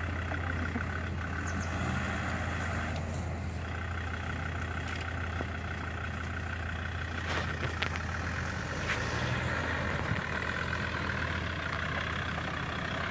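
Land Rover Discovery 2 engine running steadily at low revs as the SUV crawls along a muddy forest track, with a few light clicks about seven and nine seconds in.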